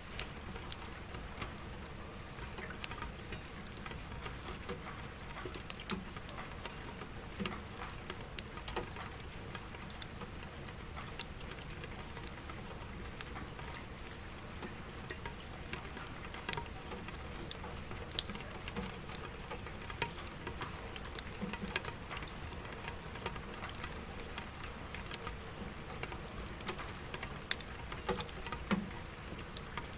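Steady rain, with many drops pattering irregularly on a surface.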